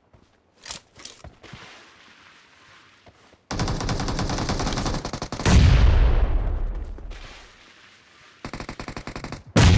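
Automatic gunfire in a shooter video game: a few scattered single shots, then a burst of rapid fire about three and a half seconds in. A louder, deeper blast follows and dies away over about two seconds, and another rapid burst starts near the end.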